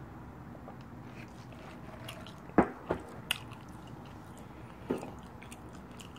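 Close-miked eating mouth sounds: a few sharp chewing clicks and smacks, the loudest about two and a half seconds in and another near five seconds, over a low steady hum.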